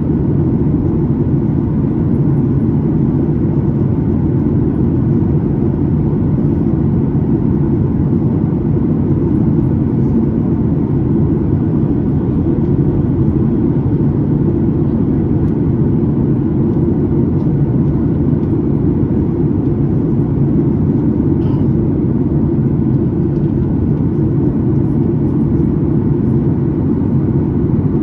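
Steady low cabin rumble of a Boeing 737-9 MAX in flight, the sound of its engines and the airflow heard from inside the passenger cabin, holding even with no changes.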